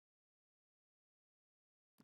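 Silence: no sound at all.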